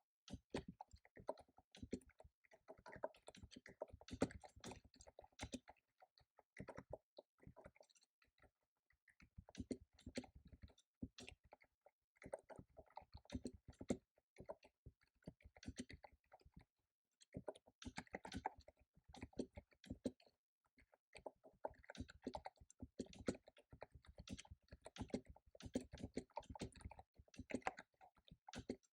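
Computer keyboard being typed on quickly, with rapid runs of key clicks broken by brief pauses of about a second.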